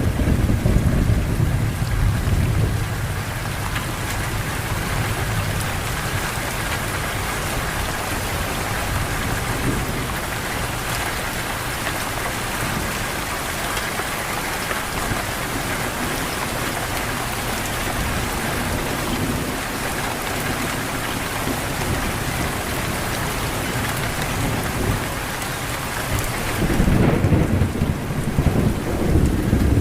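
Steady rain falling, an even hiss. There is a low rumble at the very start and again from a few seconds before the end.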